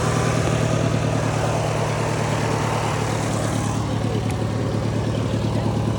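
Small engine of a home-built lawnmower crawler running steadily at idle, an even mechanical drone.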